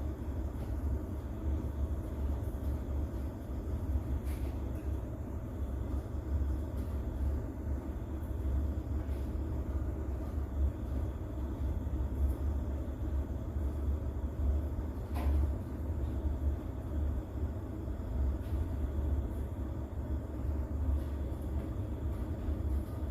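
Steady rain ambience with a deep, even rumble underneath and a few faint ticks.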